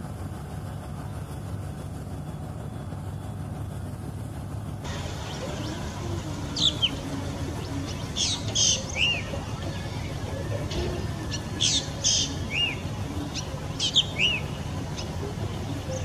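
Repeated short, sharp bird calls, each sweeping quickly downward in pitch and often coming in pairs, starting about five seconds in. Underneath runs the steady low rumble of a boat's engine.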